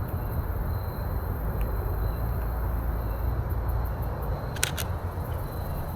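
Canon EOS RP camera shutter firing, a quick pair of clicks about four and a half seconds in, over a steady low outdoor rumble.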